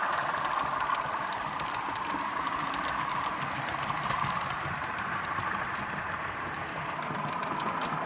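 Model train running on a club layout: a steady whirr with a fast patter of clicks as the wheels cross rail joints. It fades a little midway and grows louder again near the end, as the train moves away and comes back.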